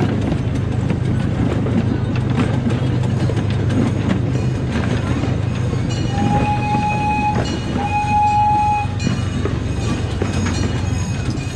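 Amusement-park miniature train running on its track, a steady rumble with light clicking of the wheels over rail joints. About six seconds in, the locomotive sounds two blasts of its horn, each a little over a second long and held on one steady pitch.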